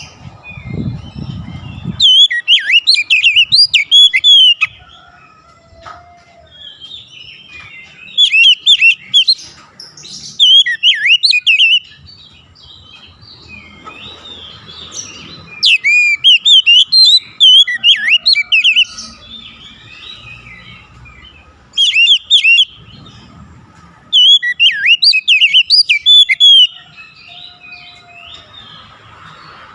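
Oriental magpie-robin (kacer) singing: loud bouts of rapid, varied whistled and chirping phrases, a few seconds each, broken by short pauses filled with softer twittering.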